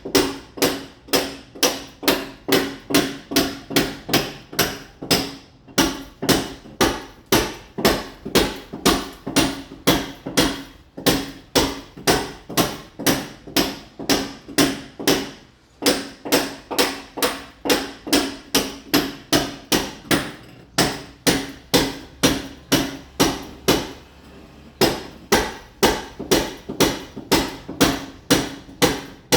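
Mason's hammer blows chipping a wall, about three strikes a second, roughening the surface to take ceramic tile. The blows pause briefly about six, fifteen and twenty-four seconds in.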